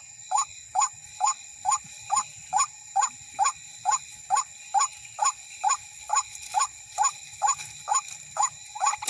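White-breasted waterhen calling its monotonous 'wak-wak', a short rising note repeated evenly about twice a second.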